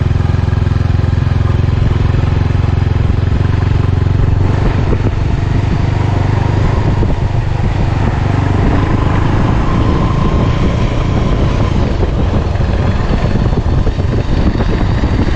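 Motorcycle engine running steadily while riding, a continuous low drone with road and wind noise.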